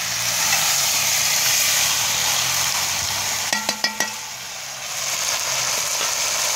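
Curried chicken sizzling as it fries down dry in a metal pot over a wood fire, being stirred. About three and a half seconds in, four quick ringing metallic knocks, the spoon striking the pot.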